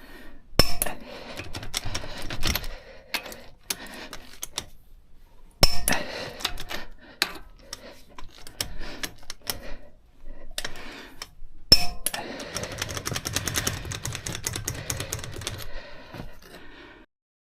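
Metal tools and parts clinking and clattering during brake work, with three sharp metallic knocks: about a second in, near six seconds and near twelve seconds. A run of rapid clicking follows the last knock and cuts off suddenly near the end.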